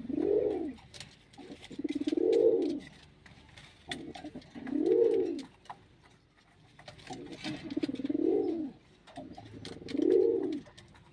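Pigeon cooing: five long coos spaced about two to three seconds apart, each rising and then falling in pitch.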